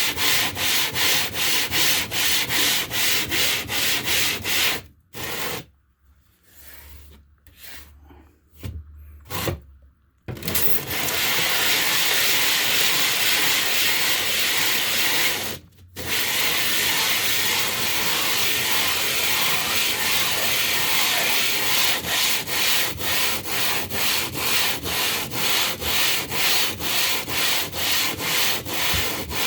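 Wet stone grinding against limestone in quick back-and-forth strokes, about two or three a second, while a stone is being worn flat. The rubbing pauses for about five seconds around five seconds in, runs as a steadier scrape for a while, and returns to regular strokes near the end.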